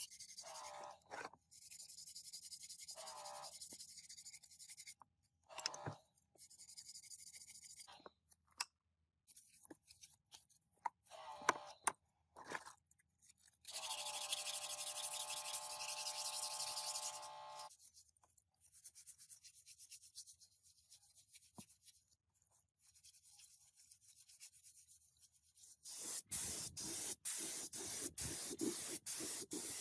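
Rubbing and sanding on rusty metal parts in short bursts. About halfway through there are a few seconds of a steady whine from a motorised tool, and near the end a quick run of regular strokes, about three a second.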